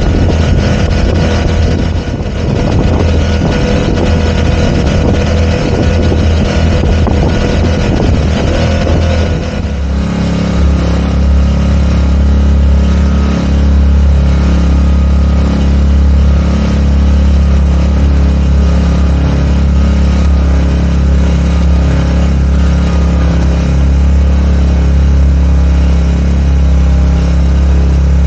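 Small 4 hp four-stroke outboard motor running, its note uneven at first, then holding steady from about ten seconds in.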